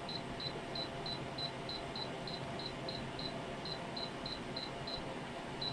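An electronic device beeping, short high-pitched beeps about three a second, pausing briefly a little past the middle and stopping near the end, over a steady low hum.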